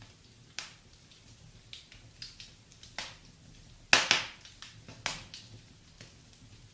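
Wood fire crackling in a fireplace: scattered sharp pops and snaps over a faint low hiss. The loudest pop comes about four seconds in, with others just before and just after it.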